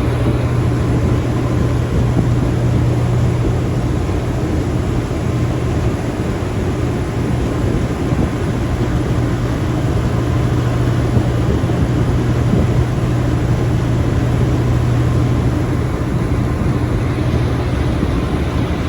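High-speed passenger ferry under way: a steady low engine drone beneath a loud, even rushing noise.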